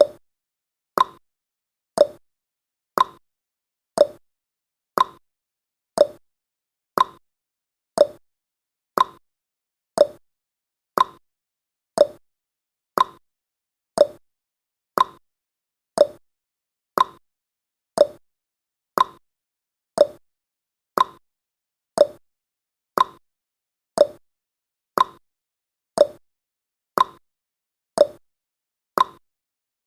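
Countdown timer's tick-tock sound effect: one click each second, alternating between a higher tick and a lower tock.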